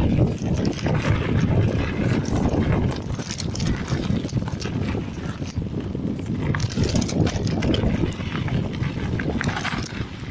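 Mountain bike riding over a dirt singletrack: wind rushing on the action camera's microphone, with the bike rattling and knocking over bumps in the trail.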